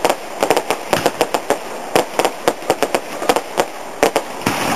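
Fireworks going off in rapid, irregular cracks and bangs, several a second, over a continuous crackle: a barrage of crackling and exploding shells or firecrackers.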